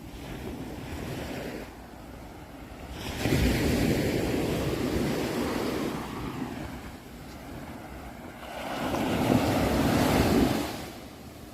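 Ocean waves surging in twice. One comes in suddenly about three seconds in and dies away; a second swells up near the end and falls off quickly.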